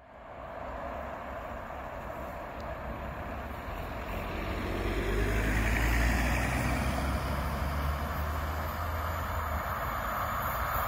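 Passenger train hauled by an EP07 electric locomotive passing: a steady rumble of wheels on rails that builds, is loudest about six seconds in, and stays loud.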